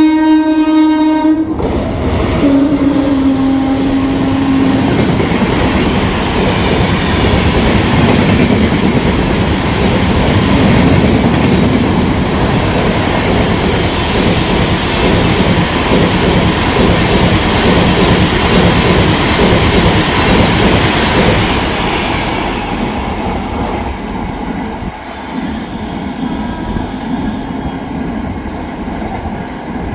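WAP-7 electric locomotive's horn blowing as the train approaches and cutting off about a second and a half in. A lower note follows briefly as the locomotive goes by. Then comes the loud, steady rolling and clatter of the passing coaches' wheels, which fades after about twenty seconds.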